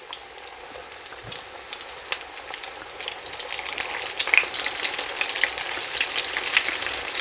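Masala-coated cod pieces deep-frying in hot oil in a wok, the oil sizzling and crackling. It grows steadily louder as more pieces are lowered in one after another.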